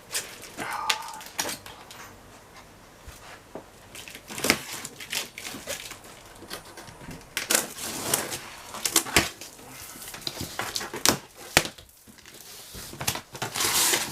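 A dishwasher's box and packaging being opened and handled by hand: irregular rustling and scraping with scattered knocks and clicks.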